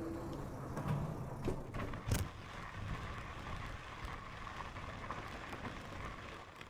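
Lectric XPEAK 2 e-bike rolling along a trail: steady tyre and wind noise, with a sharp knock about two seconds in.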